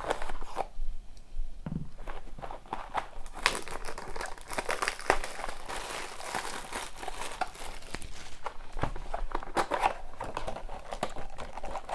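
Plastic wrapping on a box of hockey cards being torn open and crumpled by hand: a dense run of crinkling and crackling that gets busier a few seconds in.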